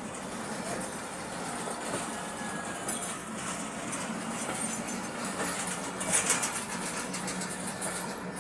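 Passenger train running at speed: a steady rumble of wheels on rail with a constant low hum. About six seconds in there is a short, louder burst of clatter.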